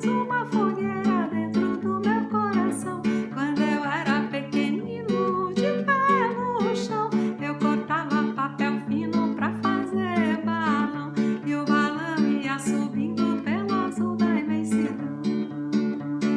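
A woman singing a children's festa junina song in Portuguese, accompanied by a steadily strummed acoustic guitar.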